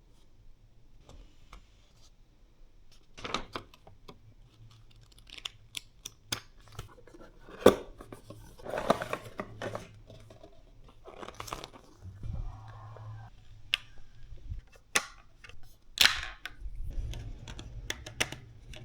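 Packaging being handled: irregular rustling, crinkling and tearing of wrapping, with scattered sharp clicks and taps, the loudest near the middle and toward the end.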